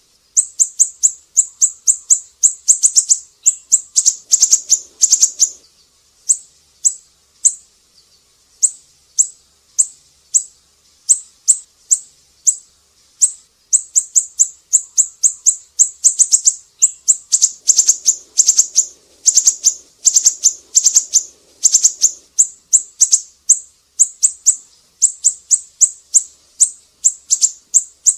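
Siri-siri bird calling in rapid runs of short, sharp, high chirps, several a second, with brief pauses between runs.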